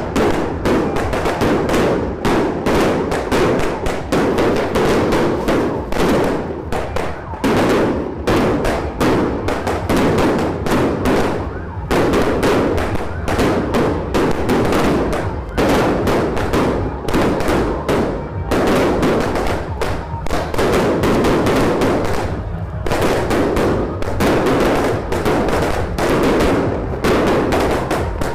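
Bottle rockets and firecrackers going off in a dense, unbroken barrage of rapid bangs and crackles, many each second.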